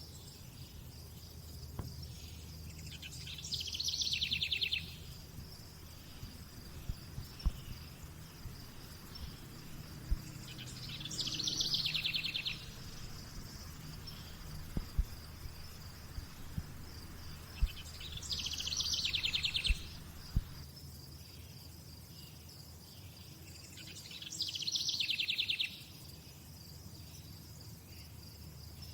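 Outdoor nature soundscape: a steady high-pitched insect drone runs throughout. A loud rapid trill about two seconds long comes four times, roughly every seven seconds. A low hum and scattered faint clicks sit underneath.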